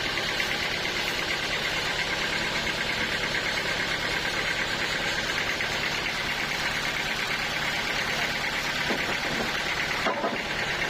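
Sawmill machinery running steadily with a fast, even pulsing hum, briefly dipping about ten seconds in.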